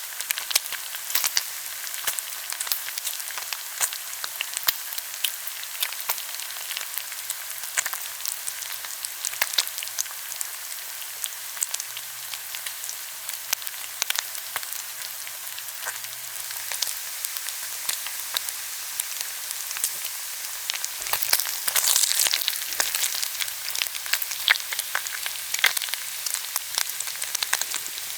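Pork belly sizzling as it grills: a steady fizz of hot fat with frequent small pops and crackles, swelling louder for a couple of seconds about three quarters of the way through.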